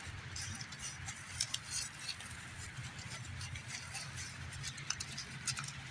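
Rain pattering, with scattered light taps and rustles over a low steady hum.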